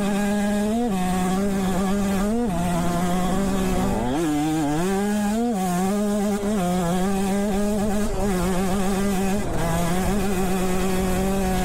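Dirt bike engine running at high, steady revs, its pitch rising briefly every second or two as the throttle is blipped.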